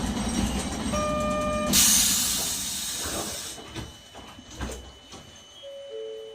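Nagasaki Electric Tramway Type 370 tram coming to rest, with a single electronic beep about a second in. A loud burst of compressed-air hiss lasting about two seconds follows, then it goes quieter, with a few knocks and a short two-note beep near the end.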